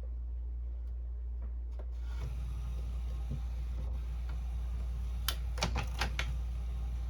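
Canon Pixma inkjet printer running: its mechanism starts up about two seconds in and works steadily, with a quick run of about five clicks a little past the middle, as it prints a page.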